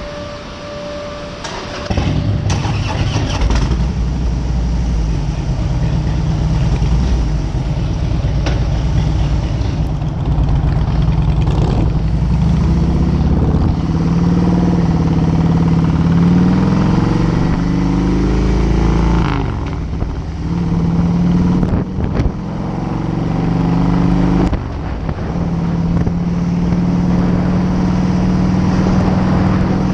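Harley-Davidson V-twin motorcycle engine under way. It gets louder a couple of seconds in, then pulls up through the gears: the pitch climbs, breaks off briefly at three shifts, and settles to a steady cruise near the end.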